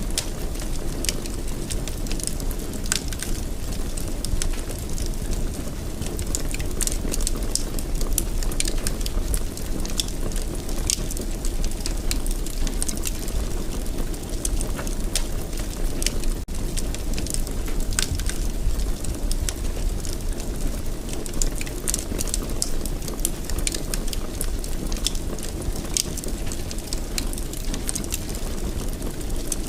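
Wood fire in a fireplace burning steadily, with a low steady rumble and frequent irregular crackles and pops.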